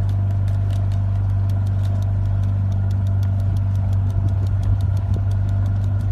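A steady low motor hum, like an idling engine, with a fast regular ticking of about four ticks a second; it cuts off sharply just after the end.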